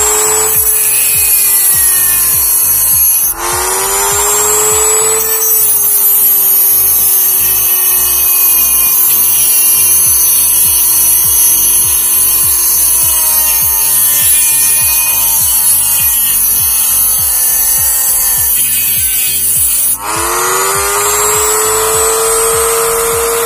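A RYU mini die grinder with a cutting disc, running at a steady high whine as it cuts through a die-cast metal toy car, with a hiss from the cut. Its pitch sags slowly as the motor works, and twice it dips briefly and climbs back up in pitch.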